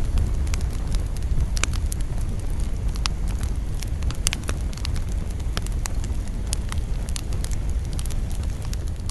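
Campfire burning: wood crackling with frequent sharp pops and snaps over a steady low rumble.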